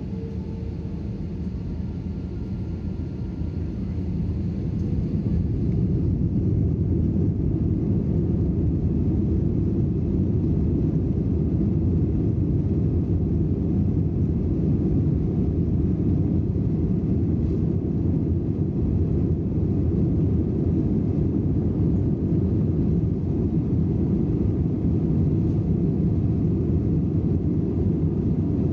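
Airbus A320 cabin noise heard from a rear window seat: a deep engine and airframe rumble that swells over the first five seconds or so, then holds steady and loud. It fits the engines coming up to thrust.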